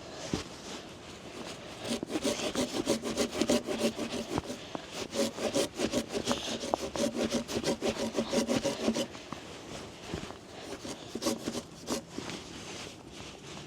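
Hand saw cutting through wood in quick, steady back-and-forth strokes, which stop about nine seconds in. A few lighter, scattered strokes follow.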